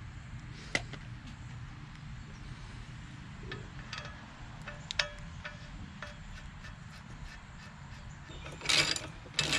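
A few sparse, light metallic clinks of propeller hardware (retaining washer and prop nut) being handled on the outboard's prop shaft. About a second before the end comes a louder run of rapid clicking from a ratchet wrench starting on the prop nut.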